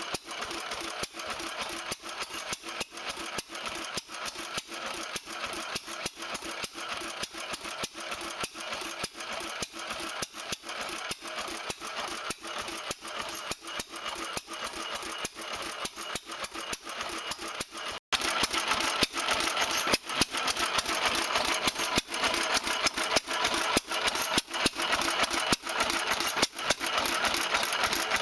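Small antique stationary gas engine running with an even beat of firing strokes, about two to three a second, and a mechanical rattle. About 18 seconds in it cuts to a louder run of the same kind of beat.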